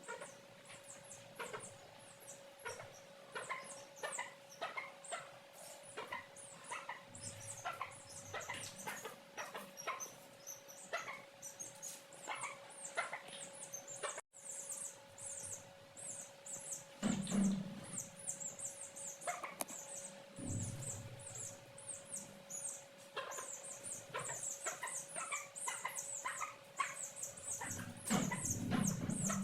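Many young chicks peeping rapidly and continuously, each peep a short call falling in pitch, over a steady low hum. There are scattered light clicks, and a couple of heavier bumps come about halfway through and near the end.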